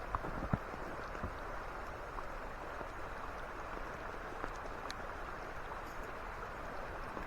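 Steady rushing of a creek's running water, with a couple of soft knocks just at the start.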